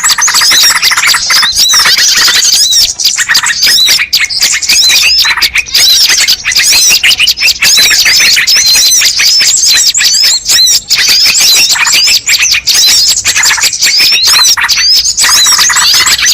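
Dense chorus of many small birds chirping and twittering rapidly, the calls overlapping without a break: a bird-lure (pikat) recording meant to attract wild birds.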